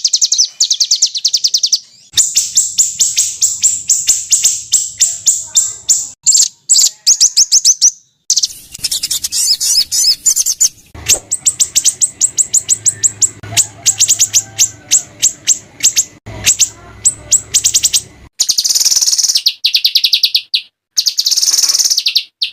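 Small songbirds giving high-pitched, rapid strings of repeated notes and harsh trills, the fast 'rough shot' (tembakan kasar) calls used to tutor caged songbirds. The singing breaks off abruptly and restarts several times as one recording gives way to the next.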